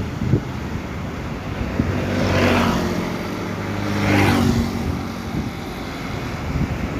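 Two Isuzu Giga tanker trucks passing close one after the other, their diesel engines running with a low steady note, each pass swelling and fading, loudest about two and a half and four seconds in.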